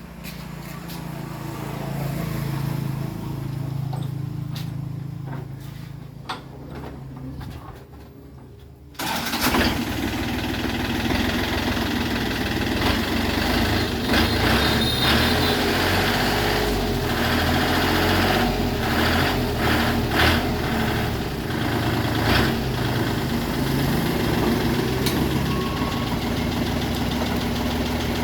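A work machine's engine running: quieter at first, then abruptly much louder about nine seconds in, and staying loud and steady after that.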